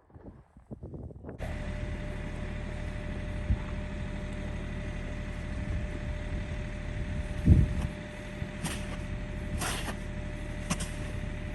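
Vehicle engine running steadily, cutting in abruptly about a second and a half in, with a heavy low thump about halfway through and several sharp clacks near the end.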